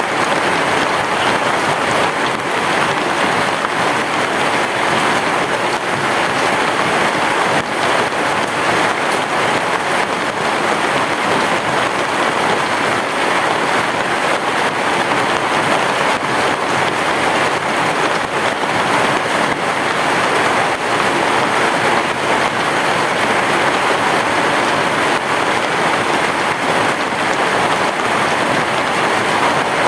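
Heavy rain falling steadily, a dense even hiss with no thunder standing out.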